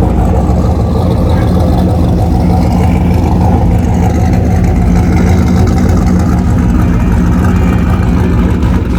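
A car engine running loud and steady close by, without revving up or down, ending abruptly at a cut.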